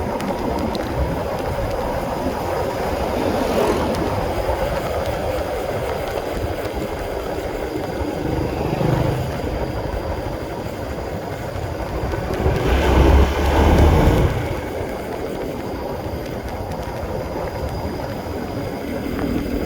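Honda CB150R single-cylinder motorcycle under way, its engine mixed with wind and road noise, with a louder surge about thirteen seconds in.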